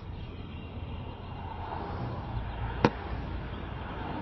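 Steady low outdoor rumble with a single sharp click about three seconds in.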